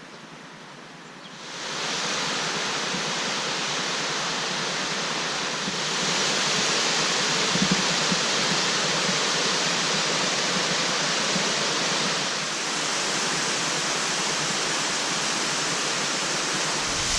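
Waterfall pouring in heavy flow from rain and snowmelt: a steady rush of water that comes up about a second and a half in and shifts slightly in level near six and twelve seconds.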